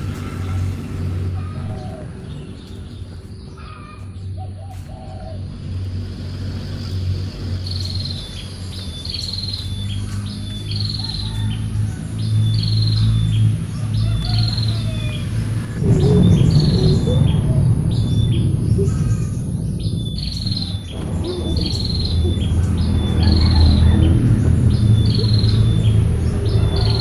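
A bird repeatedly giving a short, high, falling chirp, roughly once a second, starting about a third of the way in, over a steady low rumble of background noise.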